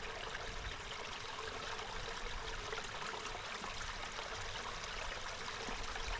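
Flowing water, a steady, even rush like a small stream.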